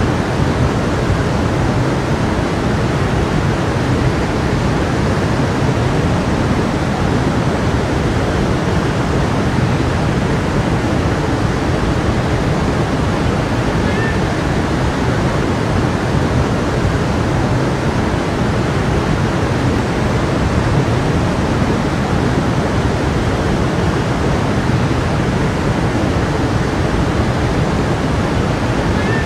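A stream flowing, a steady rushing of water, with a faint short high chirp about halfway through.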